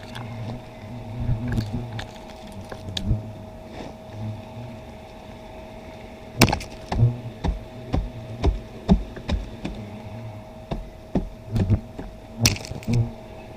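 Irregular sharp knocks and cracks, like wood being struck or snapped, coming thickest in the second half, over a low hum that comes and goes and a faint steady whine.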